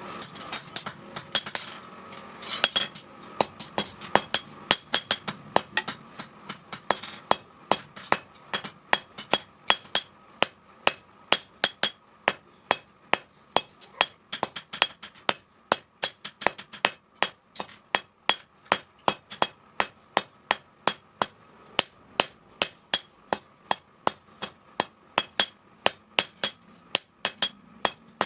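Blacksmith's hand hammer striking steel on an anvil in a steady rhythm, about three ringing blows a second, forging the sprocket steel. The first few seconds hold less regular blows.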